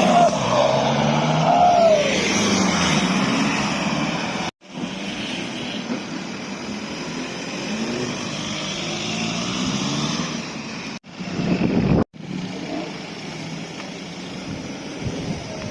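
Car engines revving and accelerating, with rising and falling pitch in the first couple of seconds. The sound cuts out abruptly for a moment a third of the way in, and twice more near the end.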